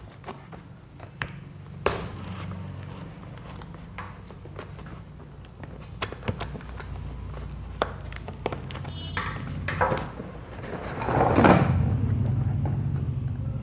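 Scattered knocks, clicks and rustles of a sturdily packed cardboard box and its contents being handled and opened. The handling grows louder and rougher near the end, over a steady low hum.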